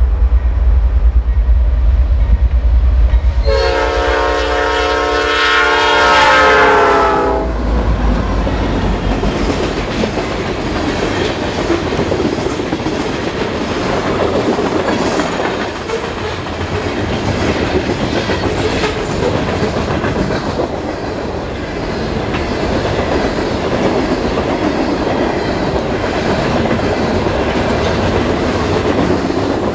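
Norfolk Southern freight train: a deep low rumble, then the locomotive's air horn sounding one chord for about four seconds. After that comes the steady rumble and clickety-clack of coal hopper cars rolling past on the rails.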